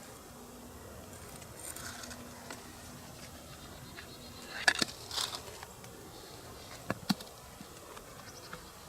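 A faint, steady insect buzz, like a fly or bee near the microphone, that stops about halfway through. It is followed by a few sharp clicks or snaps, two just after the middle and two more near the end.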